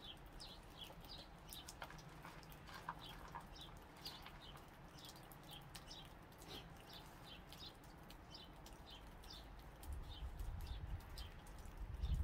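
Small birds chirping: short, high chirps repeating about every half second. A low rumble builds near the end.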